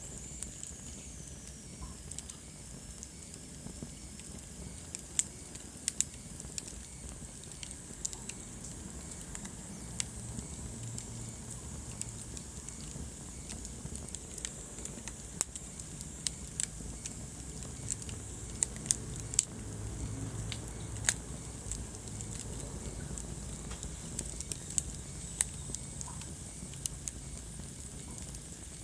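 Wood fire burning in a fireplace, crackling with sharp, irregular pops over a low steady rumble and hiss.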